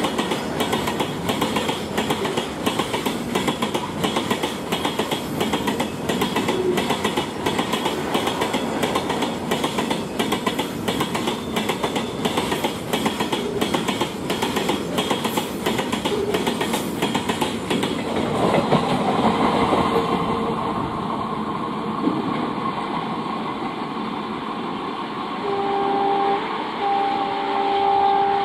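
BOXNHL open freight wagons rolling past close by, their wheels beating out a rapid clickety-clack over the rail joints. About 18 seconds in this gives way to a smoother, steady train rumble, and near the end a diesel locomotive horn sounds twice, a short blast and then a longer one.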